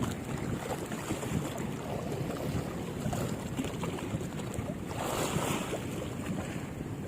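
Wind buffeting the microphone over the sound of sea water and small waves.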